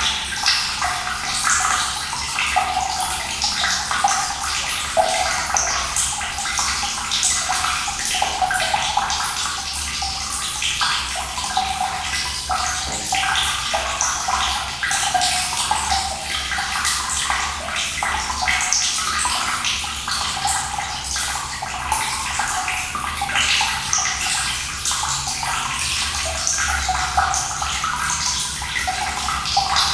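Running water splashing steadily, a constant rush made of many small splashes, bright and with little low rumble.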